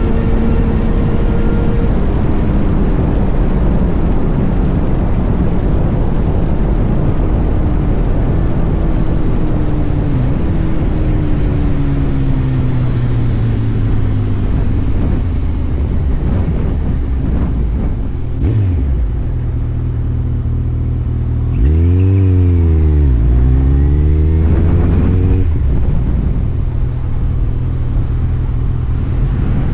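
Motorcycle engine running on the move, its pitch slowly falling as it eases off. About two-thirds of the way through the engine note dips sharply and then rises and falls in a couple of revs before settling into a steady, lower idle-like drone.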